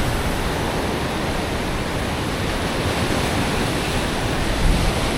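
Surf washing on the shore, mixed with wind buffeting the microphone, as a steady even rush of noise; a brief low gust about four and a half seconds in.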